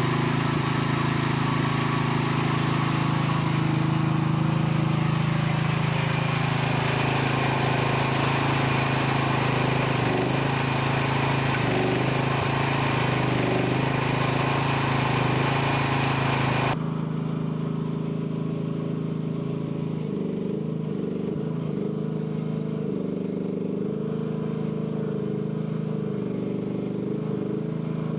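AGT L12 mini excavator's small engine running steadily under hydraulic load, with a thin high whine over it. About two-thirds of the way through the sound abruptly turns quieter and duller, and the pitch wavers up and down.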